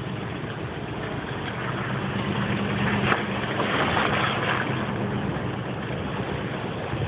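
Nissan Titan pickup's V8 engine running at low speed, a steady low hum, with a rushing noise over it that swells about three to four seconds in and then eases.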